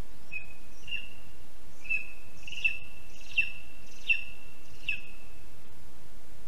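A bird calling: a series of about six sharp, high notes about two thirds of a second apart, each trailing into a thin held whistle, over a steady hiss.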